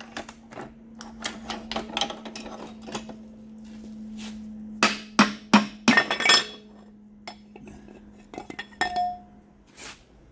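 Steel and aluminium transmission parts clinking and knocking together as they are handled and set down during teardown of a 4L60E automatic transmission. The loudest clanks come in a cluster about five to six and a half seconds in, over a faint steady hum.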